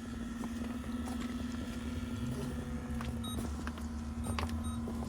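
Case 340 tractor's diesel engine running steadily at idle, with a few light knocks over it.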